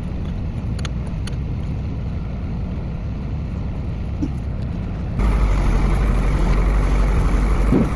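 An engine running steadily, with a few light metallic clicks over it. About five seconds in it suddenly gets louder and hissier.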